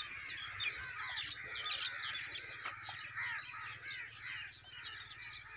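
A chorus of many small birds chirping and calling at once, dense overlapping short chirps: a flock settling to roost at dusk.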